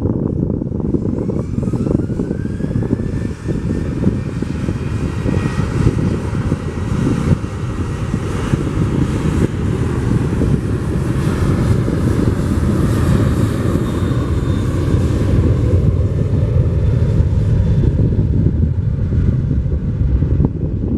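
Twin-engine Airbus A330-300 jet engines running with a heavy low rumble and a whine that rises in pitch about a second and a half in, as the engines spool up.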